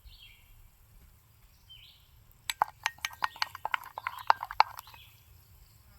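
A quick, irregular run of sharp clicks and taps lasting about two seconds, starting a little before halfway through. Faint short chirps sound now and then before and after it.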